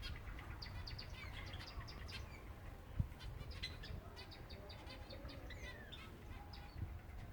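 Silver Java sparrows chirping, many short rapid calls overlapping, with a few gliding notes. A single knock about three seconds in.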